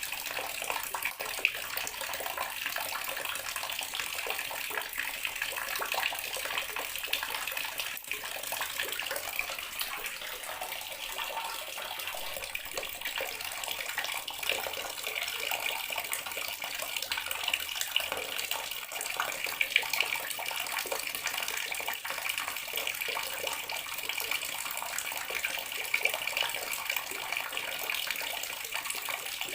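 Tap water running steadily into a bathroom sink, a continuous splashing hiss.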